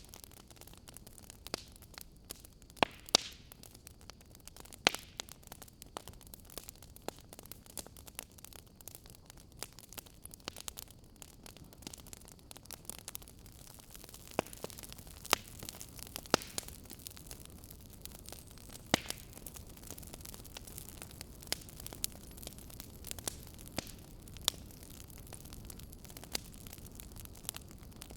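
Fire crackling: irregular soft snaps and pops over a steady low hiss, with a few sharper pops scattered through.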